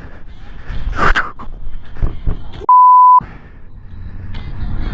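A half-second censor bleep, a pure steady 1 kHz tone laid over the soundtrack to mask a word, about two and a half seconds in. Around it is a noisy, busy background with a loud brief burst about a second in.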